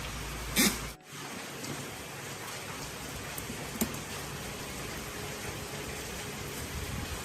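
A short loud burst, then an abrupt cut about a second in to a steady, even hiss with a few faint ticks.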